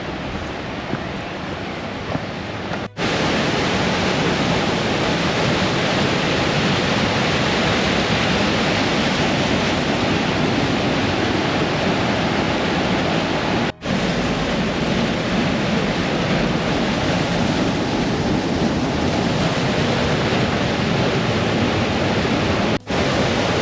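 Waterfall rushing as a steady, even roar of water, which gets louder about three seconds in and drops out for an instant three times.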